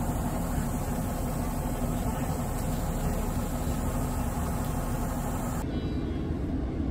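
Steady low rumble and hiss of a passenger train carriage in motion, heard from inside the cabin. The higher hiss drops away abruptly about five and a half seconds in while the low rumble continues.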